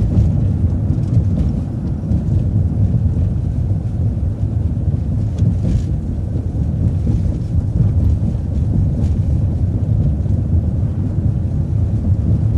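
Steady low rumble of a road vehicle in motion, heard from inside the cabin: engine and road noise.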